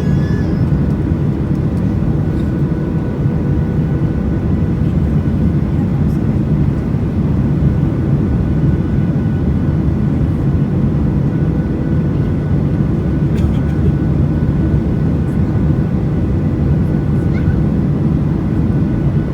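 Steady cabin noise inside a Boeing 737 in flight: the jet engines and rushing air make a constant low rumble, with a few thin steady whining tones above it.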